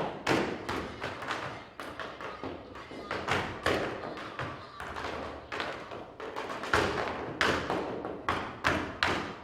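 Tap dancing: tap shoes striking the floor in quick, irregular footwork, several sharp taps a second with louder accented stamps between.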